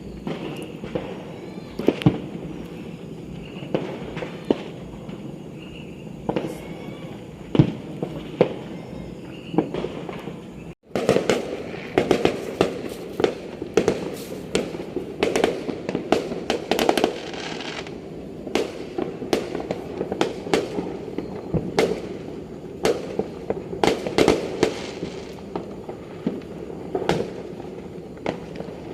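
Many fireworks and firecrackers going off, sharp bangs and pops in quick irregular succession, denser and louder after a brief break in the sound about eleven seconds in.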